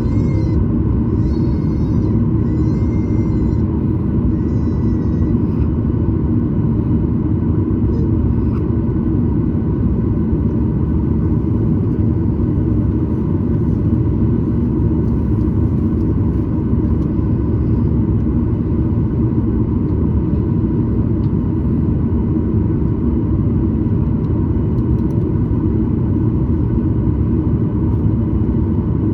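Boeing 737-900ER's CFM56 jet engines running steadily, heard as a constant low rumble with a steady hum inside the passenger cabin.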